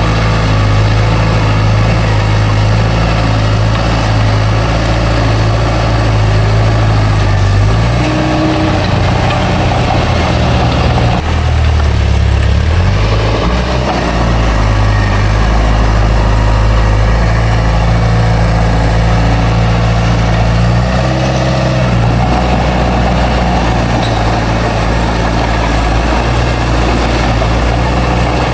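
Heavy diesel engine of earthmoving machinery running steadily under work, its low note shifting a few times as the load and revs change.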